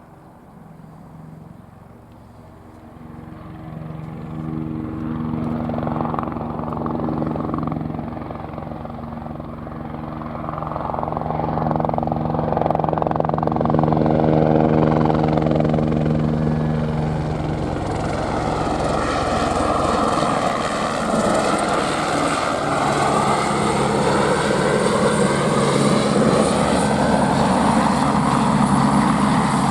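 Airbus AS350 helicopter approaching and flying close by: its rotor and turbine noise swells over the first several seconds and then stays loud, with a shifting, whooshing sweep as it passes.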